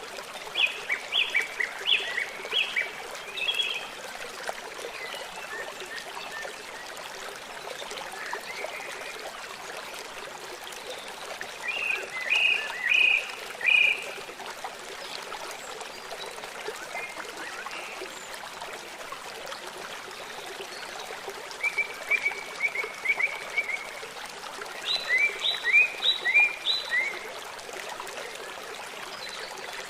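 Songbirds singing several bursts of quick repeated chirping notes over the steady rush of a flowing stream.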